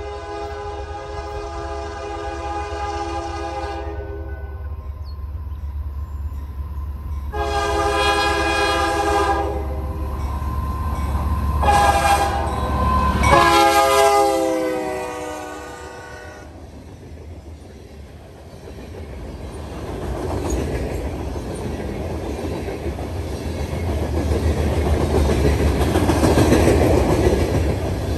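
A locomotive's multi-note air horn sounds the grade-crossing signal, long, long, short, long, over a low engine rumble, its chord dropping in pitch as the locomotive passes. The horn then stops, and the cars roll by with clickety-clack wheel noise that builds toward the end.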